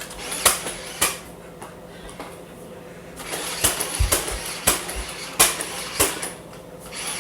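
Sharp plastic clicks and knocks, about eight spread over several seconds, from a Nerf blaster being worked with no darts left in it.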